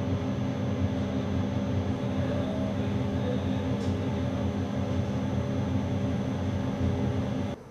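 Steady hum inside the cab of a standing NS ICM (Koploper) electric intercity train, its onboard equipment running and giving several constant tones over a noisy bed. It drops away abruptly near the end.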